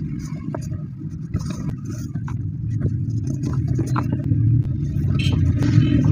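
Crumbly sand-cement chunks being crushed by hand close to the microphone: a gritty crunching rumble under scattered crackles and ticks, growing denser and a little louder near the end.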